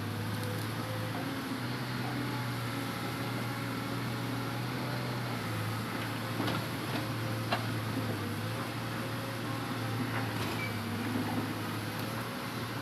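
Hitachi Zaxis 200 excavator's diesel engine running steadily, with a few faint knocks in the middle.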